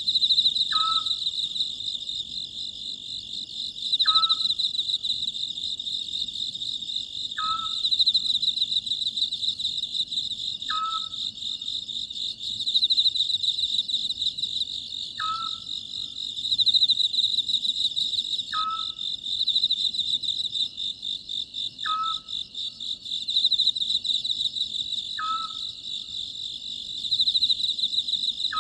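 Steady chorus of crickets chirping, with an Oriental scops owl giving a short call about every three seconds, eight times.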